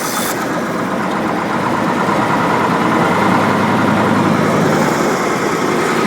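Caterpillar 3208 naturally aspirated V8 diesel in a Ford truck running shortly after a cold start, getting gradually louder, with a bit of an exhaust leak in its true dual exhaust.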